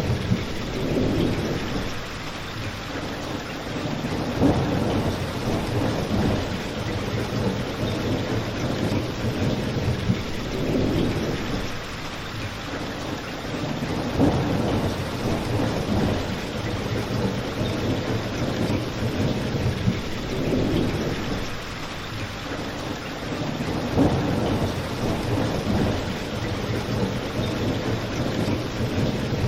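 Steady heavy rain with a crackling fireplace: a continuous wash of rain, low rumbling swells every few seconds, and a few sharp pops from the fire.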